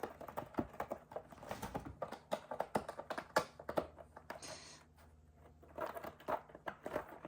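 Cardboard pieces being handled and folded together: irregular light taps, clicks and creases, with a short rustle about four and a half seconds in.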